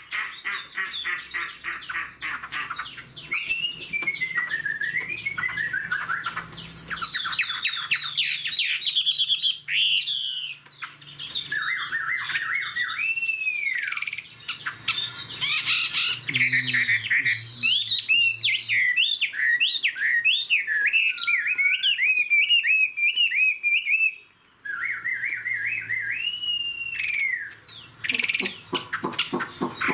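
Chinese hwamei singing a long, varied song of rapid trills and looping whistled phrases, with short breaks about ten and twenty-four seconds in.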